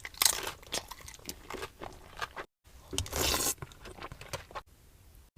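Close-up mouth sounds of someone biting and chewing food, with crunching and wet smacking, a louder crunchy stretch about three seconds in.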